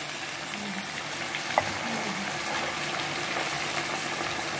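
Puti fish and mustard paste sizzling steadily in hot mustard oil in an iron kadhai, with a few faint pops.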